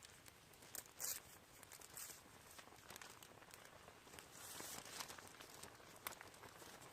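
Faint rustling and crinkling, with scattered sharp clicks and crackles and a few short louder rustles.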